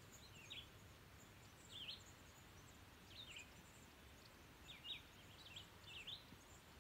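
Faint bird chirps: about half a dozen short, high notes, each a quick downward-and-up sweep, spaced a second or so apart over a low, even background hiss.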